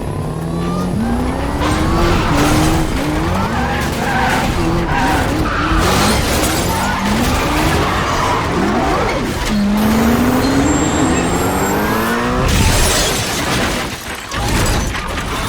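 Sports-car engines accelerating hard through gear changes, the pitch climbing and dropping back again and again, with tyre screeches. A loud burst of noise comes about thirteen seconds in.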